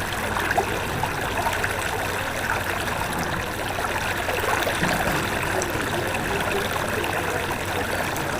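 Floodwater of a river in flash flood rushing steadily.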